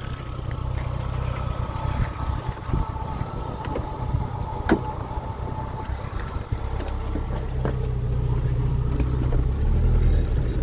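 A car running, a steady low rumble with a faint whine above it, that grows louder toward the end, with a sharp click about five seconds in.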